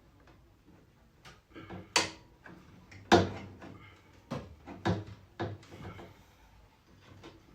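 Knocks and clatters of a washing machine part being handled and refitted onto its mounting threads: about half a dozen sharp knocks, the loudest about two and three seconds in.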